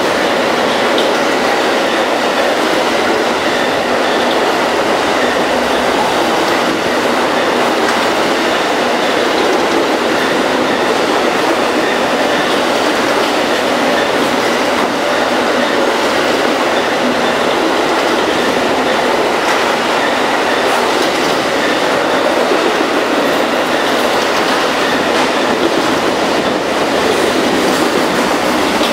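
Amtrak Auto Train's enclosed autorack cars passing at speed: steady, loud noise of steel wheels running on the rails.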